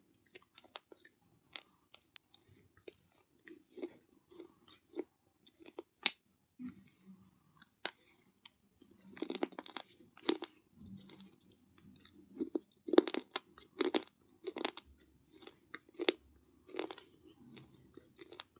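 Baked clay being bitten and chewed: irregular, sharp, gritty crunches that come thicker and louder around the middle and again in the later part.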